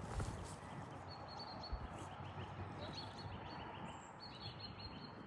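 Small birds chirping over steady outdoor background noise, with a quick run of repeated high chirps in the second half. A soft thump comes just after the start.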